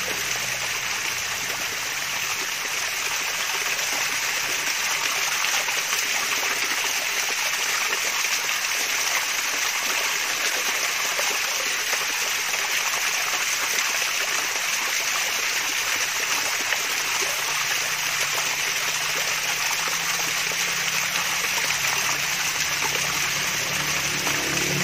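Mini waterfall with water splashing and trickling steadily into a pool: an even, unbroken babble. Faint low tones come in during the last several seconds.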